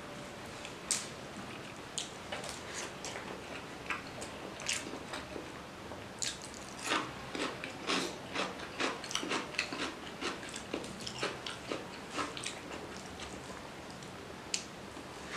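Close-up eating sounds: wet chewing and mouth clicks, with the squish of fingers mixing rice and fish curry. The clicks are sparse at first and come thick and fast through the middle.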